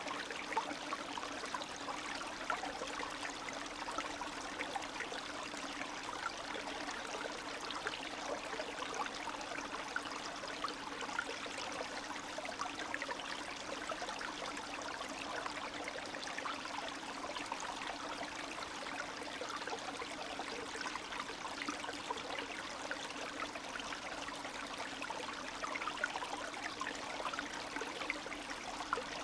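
Spring stream, shallow meltwater running and trickling over stones, a steady babble with many small splashes and gurgles.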